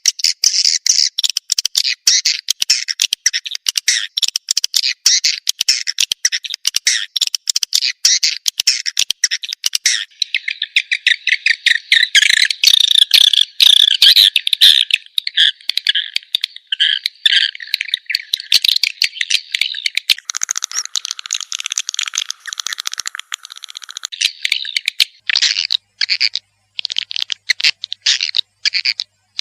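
Swiftlet lure recording: dense, rapid chirping and twittering calls of edible-nest swiftlets, played to draw them to roost. Partway through, the chatter changes texture, and near the end it breaks into separate bursts with short gaps.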